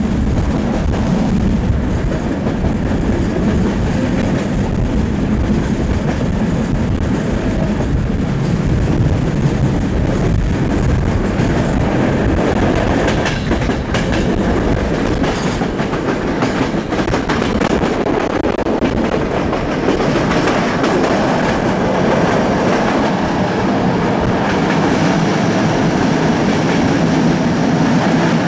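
Passenger train running along the track, heard from on board: a steady rumble of wheels on the rails with the clickety-clack of rail joints, and a few sharper clicks in the middle.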